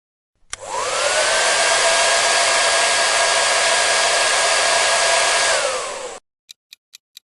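Hair dryer switched on, its motor whine rising to a steady pitch over a rush of blown air, running for about five seconds, then switched off with the whine falling away. Evenly spaced ticking, about four ticks a second, follows near the end.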